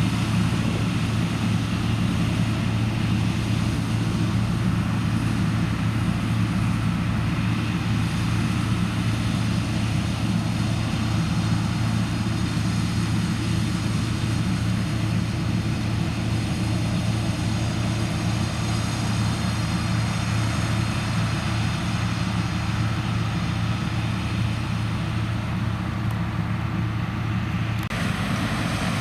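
Diesel engine of farm harvesting machinery running steadily under load, a constant low drone with an unchanging pitch; the sound shifts slightly about a second before the end.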